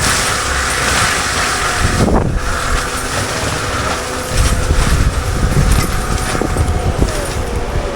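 CAT 299D3 XE compact track loader running a Fecon forestry mulcher: the diesel engine and spinning mulcher drum make a loud, steady whine. A heavier low rumble comes in about four seconds in.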